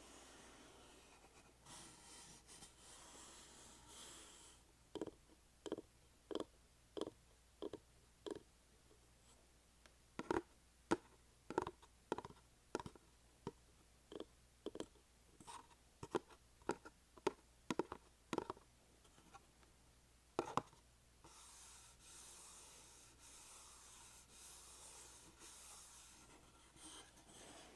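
Hands working small ASMR trigger objects. First comes soft scratchy rubbing, then a run of separate sharp clicks about one or two a second for some fifteen seconds, then soft hissy rustling.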